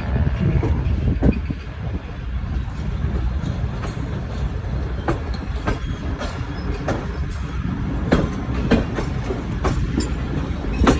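Passenger train running along the track: a steady low rumble with irregular clacks and knocks from the wheels and coaches.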